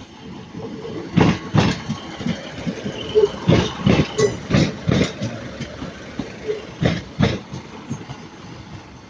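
A train rolling slowly over rail joints, its wheels knocking in pairs about half a second apart as each bogie crosses, over a steady running background.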